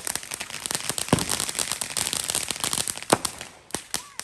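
Fireworks going off: a dense, rapid crackle of many small pops, with louder bangs about a second in and again about three seconds in.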